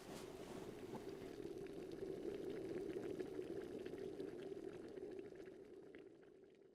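Pot of water boiling on a stove: a steady bubbling with many small pops, swelling and then fading out near the end.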